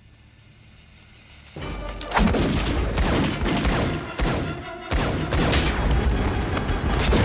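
Action-film soundtrack: quiet for about a second and a half, then a dramatic music score comes in with rapid, repeated gunfire and booms.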